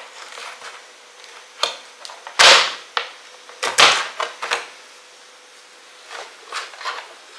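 Hand pruning clippers cutting through a dahlia tuber clump: a string of snips and cracks, the two loudest about two and a half and four seconds in, with lighter clicks after.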